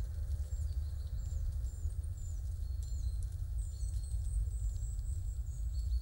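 Small birds giving many short, high, down-slurred chirps in quick succession, over a steady low rumble.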